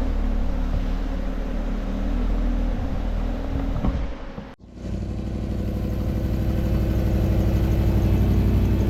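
Car engine running at idle, with a brief sudden gap about four and a half seconds in. After the gap an engine runs on, growing steadily louder.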